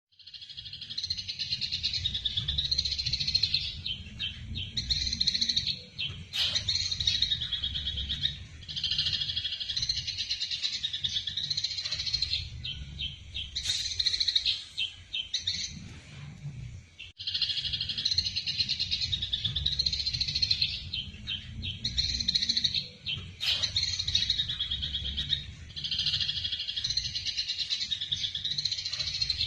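Eurasian tree sparrows giving rapid, agitated chattering calls in long bouts with short breaks: the excited calls of sparrows fighting. A steady low rumble runs underneath.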